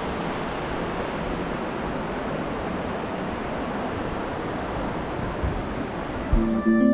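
The Aare River rushing through the narrow limestone gorge below, a steady noise of water. Plucked-string, harp-like music comes in near the end.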